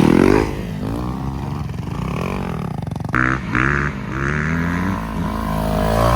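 250cc dirt bike engine revving, its pitch rising and falling over and over as the rider works the throttle. The sound changes abruptly about three seconds in.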